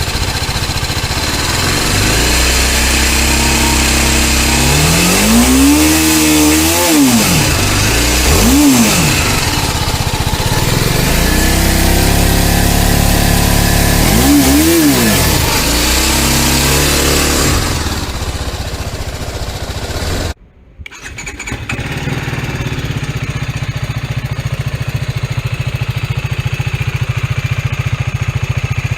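TVS Apache 310's single-cylinder engine idling and being revved through its exhaust in several throttle blips, each climbing and falling back, then settling into a steady idle. The sound cuts out briefly about twenty seconds in, and a steady idle follows.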